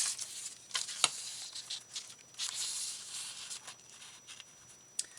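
Paper rustling and crinkling as torn paper strips are handled, with a few light taps and clicks.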